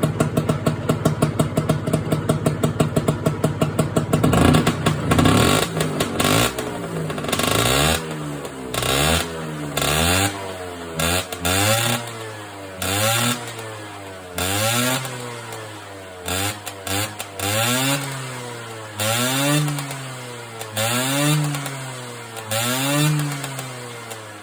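Vespa PK50N scooter's two-stroke engine, bored to 85cc with a ported DR kit and a custom exhaust, running with a fast, even pulsing beat. After a few seconds it is revved up and down in repeated throttle blips, about one every second and a half.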